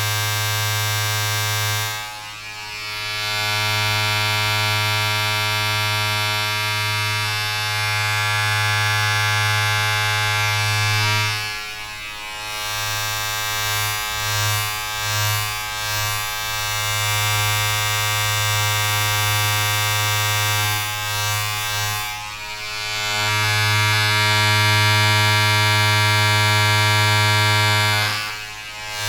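A small electric appliance buzzing steadily at a low pitch with many overtones. It drops briefly about two seconds in, near the middle and twice more later, and wavers for a couple of seconds around the middle.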